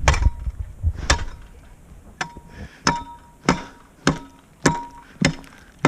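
A metal tool striking thick roof ice again and again, a sharp blow every half second to a second, each with a brief metallic ring, as the ice dam is chipped at.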